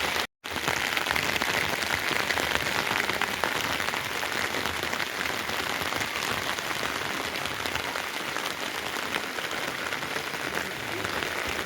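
Steady rain, an even hiss of many small drops, broken by a brief gap of silence just after the start.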